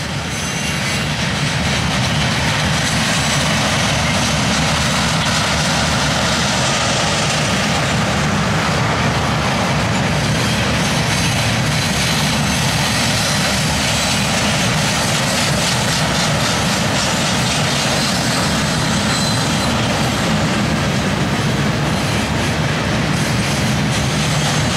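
Freight train of steel-slab-loaded flatcars rolling past: a steady, loud rumble and rattle of steel wheels on the rails, with a faint thin squeal from the wheels.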